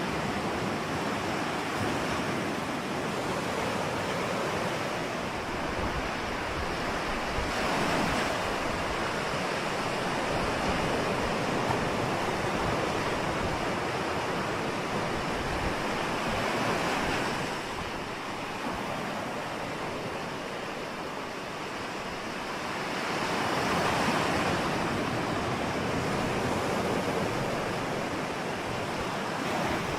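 Ocean surf: a steady wash of breaking waves, swelling louder every several seconds as larger waves come in, with wind on the microphone.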